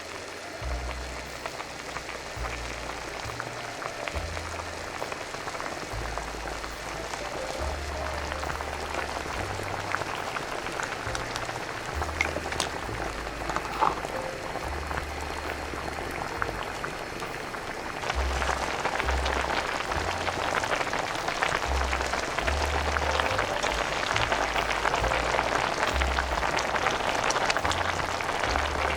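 Spicy udon broth boiling in a pot, a dense bubbling crackle that gets louder about eighteen seconds in.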